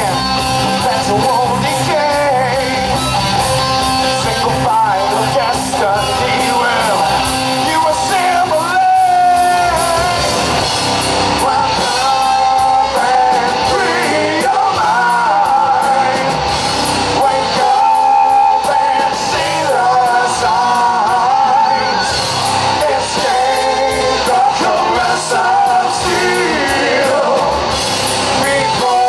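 Live rock band playing, with sung and yelled vocals over guitar and drums.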